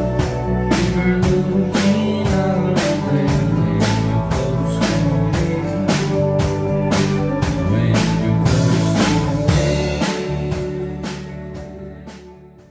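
Rock band playing an instrumental passage: drum kit keeping a steady beat over bass and electric guitar. The music fades out over the last few seconds.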